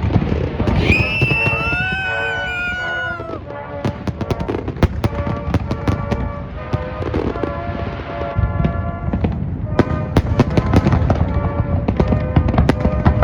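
Fireworks going off in a rapid run of sharp bangs and crackles, over music playing.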